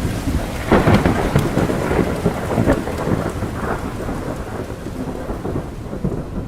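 Steady rain with thunder rumbling, loudest about a second in.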